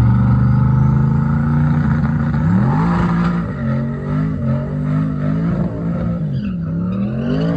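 Drag race car engine revving: the pitch climbs, holds high for a couple of seconds, then falls and rises again several times.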